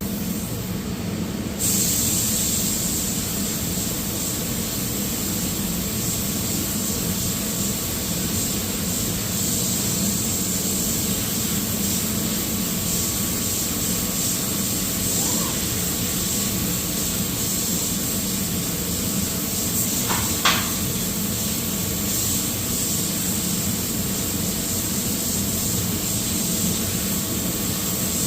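Air spray gun hissing steadily while spraying epoxy primer, starting abruptly about two seconds in, with one brief squeak about two-thirds of the way through.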